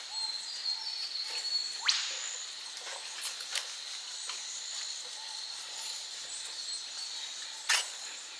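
Bush insects keeping up a steady high-pitched drone, with a quick rising whistle about two seconds in and a few sharp clicks.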